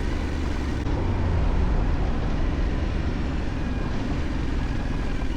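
Yamaha Ténéré 700's 689 cc parallel-twin engine running steadily while the bike is ridden, with a constant rushing noise over it.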